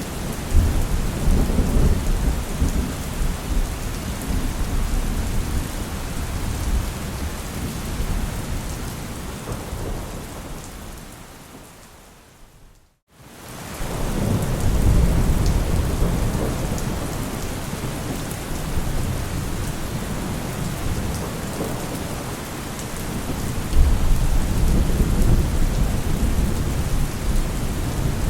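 Heavy rain falling steadily with low rolling thunder rumbling near the start, again just after the middle and near the end. About halfway through the storm fades out to a moment of silence, then fades back in.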